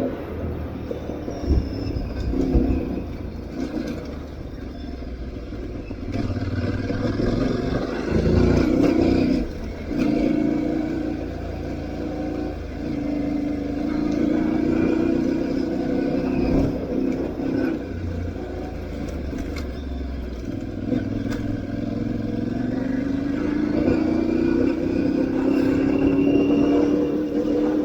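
Aprilia Tuareg 660's parallel-twin engine running under load off road, its pitch climbing and dropping again and again as the throttle is opened and closed, over a steady low rumble. A few sharp knocks from the bike on rough ground.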